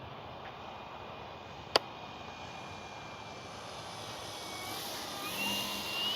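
Electric RC warbird flying: a brushless motor and three-blade propeller hum and whine over background noise, growing louder near the end as the plane comes closer and rising slightly in pitch. A single sharp click about two seconds in.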